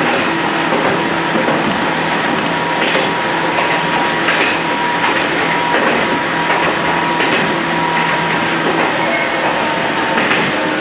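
Toyama Chihō Railway 14760-series electric train running, heard from inside the front car: a steady rumble of wheels on rail under a hum of a few steady tones, with brief brighter clatters about every second and a half.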